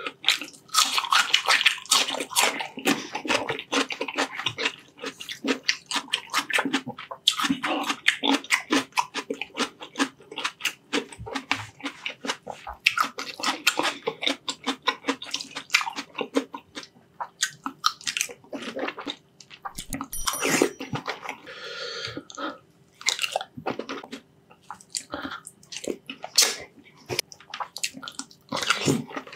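Close-miked wet chewing and mouth smacking as balut (boiled fertilised duck egg) coated in runny chili sauce is eaten from a spoon, with many quick sticky clicks.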